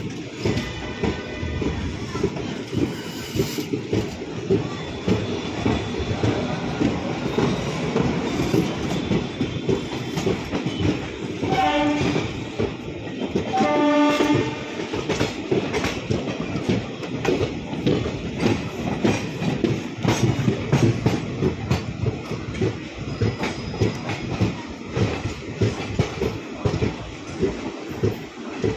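Two trains running side by side, with coach wheels clattering over rail joints and points, heard from the doorway of one of the moving trains. About halfway through, a train horn sounds twice, each blast about a second long and roughly two seconds apart.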